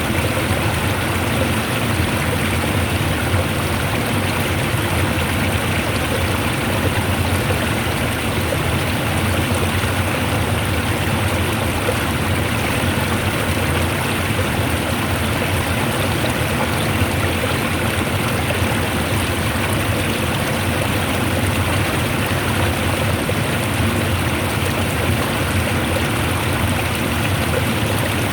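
Fast-flowing water rushing steadily, an even, unbroken sound with no pauses or changes.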